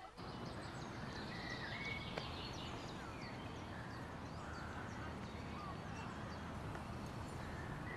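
Birds chirping, with many short calls over a steady outdoor hush.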